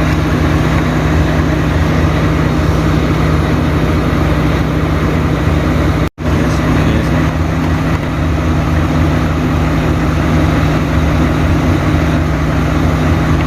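Large diesel engine idling steadily, with an even hum over a low pulsing throb. The sound cuts out for an instant about six seconds in.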